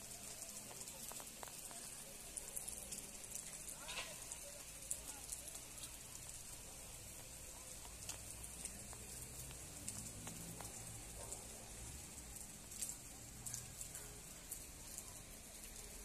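Steady rain falling, heard faintly as a high hiss full of small drop ticks. A short falling whistle comes through about four seconds in.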